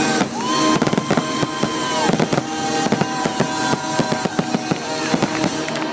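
Fireworks finale barrage: a dense, rapid run of bangs and crackling shells, with whistling tones held for a second or two over them.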